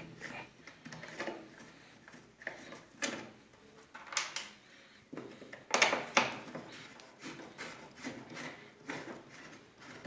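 Irregular clicks, knocks and scrapes of a screwdriver and hands working the screws and panels of a washing machine being taken apart, a few louder knocks around the middle.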